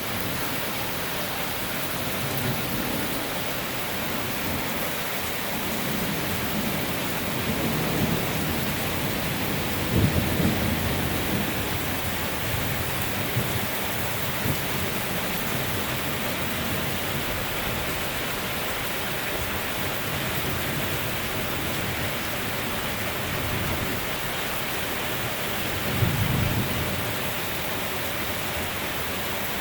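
Thunderstorm: steady heavy rain with rolls of thunder rumbling several times, the loudest about ten seconds in and another near the end.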